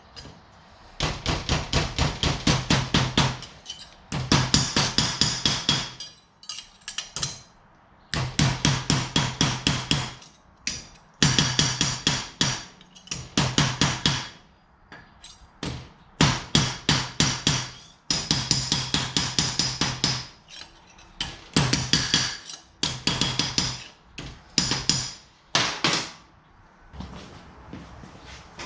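Power hammer striking sheet metal in bursts of rapid, even strokes, about five a second, each burst lasting two to three seconds with short pauses between, a steady motor hum under the strokes.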